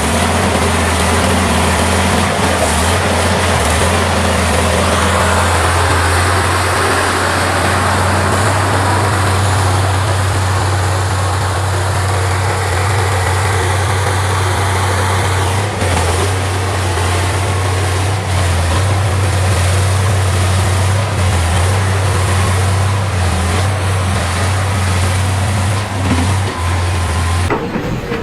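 Tractor engine running, a steady low drone with mechanical noise over it.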